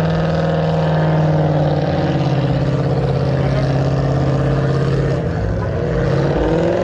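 A car engine revved up and held at steady high revs for about five seconds, then the revs drop briefly and climb again near the end.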